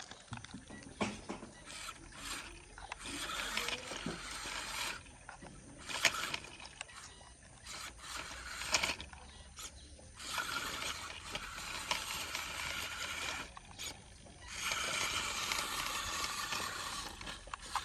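Small electric motors and plastic gears of a remote-control toy tractor whirring in spells of a few seconds each, with sharp clicks and knocks in between.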